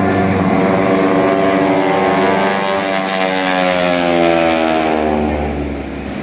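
Aircraft passing low overhead: a droning engine note with a rushing hiss that peaks about three to four seconds in, its pitch sliding down as it goes by and moves away.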